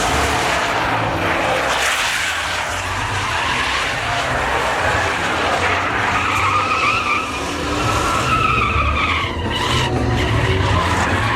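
A truck doing a burnout: the engine runs hard with its wheels spinning, and the tyres squeal and hiss without a break. In the second half a wavering, high-pitched squeal rises above the noise.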